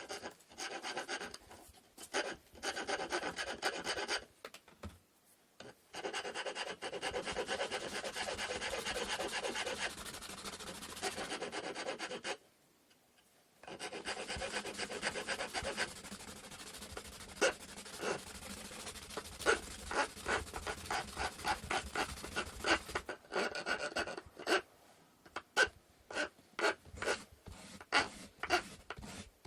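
Hand tool rasping on wood in runs of quick back-and-forth strokes, with two short pauses, the strokes becoming separate and spaced out near the end.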